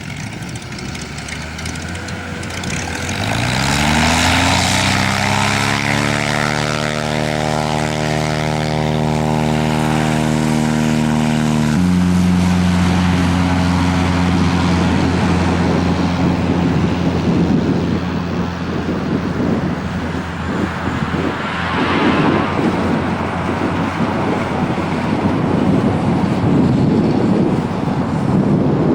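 Cessna Agwagon's piston engine and propeller rising in pitch from idle to high power, holding steady, then changing abruptly about twelve seconds in and giving way to a rushing noise.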